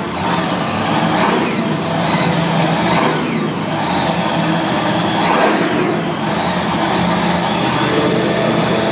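Monster truck engines running loud and revving, with the pitch sweeping down several times.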